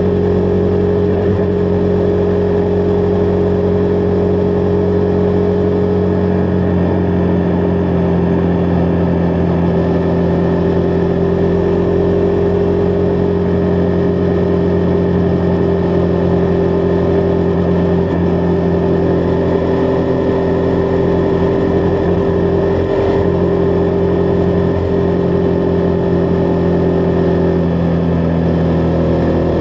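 Single-cylinder engine of a Husqvarna Vitpilen 401 motorcycle running at a steady cruising speed, its note holding almost constant with small shifts in pitch about seven seconds in and again near the end.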